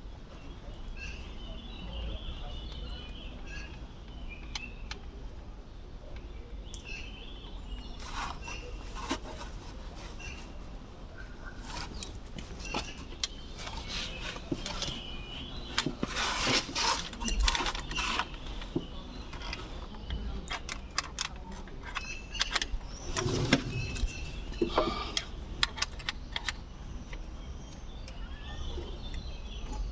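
Metal hand tools clicking and clinking against metal while bolts are worked loose to remove a starter motor, in irregular bursts with two denser clusters of clicks around the middle and about two thirds of the way through.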